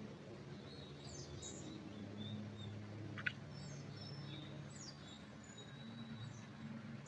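Small birds giving short, high chirps and thin whistles over a low, steady background rumble, with one sharp click about three seconds in.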